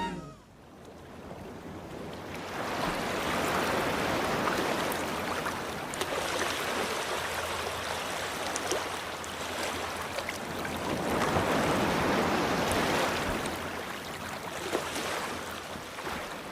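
Rushing water noise, swelling and fading twice, with a few faint clicks.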